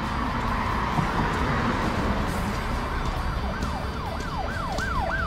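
Emergency vehicle siren in a fast rising-and-falling yelp, about three sweeps a second, coming in about halfway through and growing louder as it approaches, over steady street noise.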